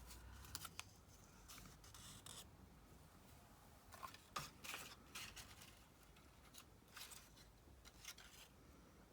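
Faint, scattered short rustles and scrapes of paper craft materials being handled at a work table.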